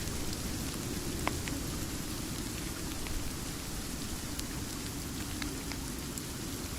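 Steady rain falling, with a low rumble underneath and a few scattered sharp ticks.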